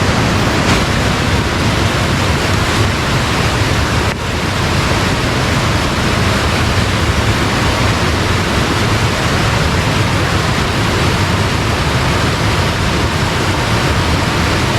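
Steady rush of fast-flowing water, with a brief dip about four seconds in.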